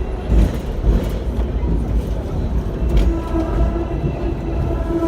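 Hong Kong double-decker tram running on its rails: a steady low rumble with a few sharp knocks from the wheels. From about three seconds in, a steady hum from the tram's motor joins it.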